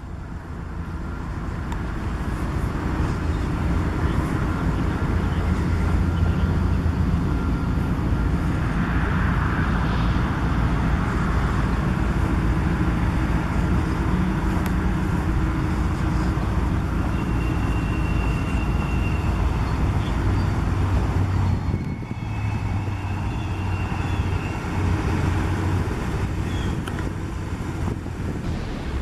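1995 Ford F-250 pickup's engine running, growing louder over the first few seconds and then holding steady, with a brief drop in level about three-quarters of the way through.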